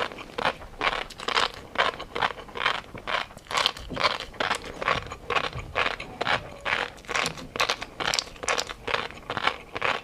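Close-up chewing of crunchy food, a steady run of crisp crunches about two to three a second.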